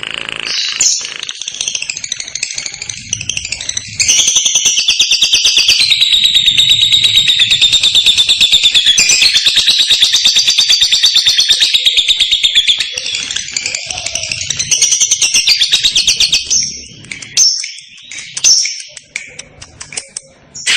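Lovebird singing a long, rapid chattering trill (the 'ngekek' song) of very fast repeated high notes. It begins with a few short calls, breaks into the loud continuous trill about four seconds in, softens after about twelve seconds, and ends in scattered short calls.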